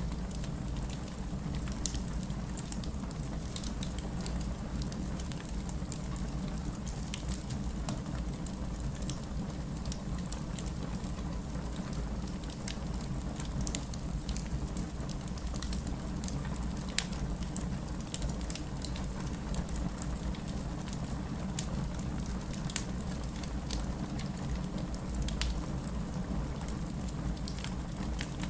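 Wood fire burning, with a steady low rumble of flame and many scattered sharp crackles and pops from the burning logs.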